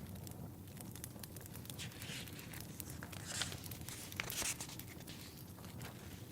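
Pages of a book being turned: a few dry papery swishes in the middle, over the steady popping and crackling of a log fire.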